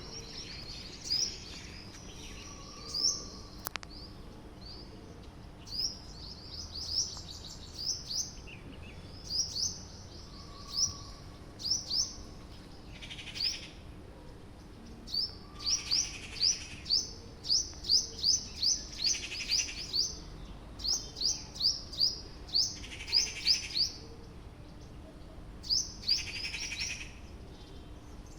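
Small birds chirping: many short, high chirps in quick runs, densest around the middle, with a few longer, harsher, noisier calls mixed in.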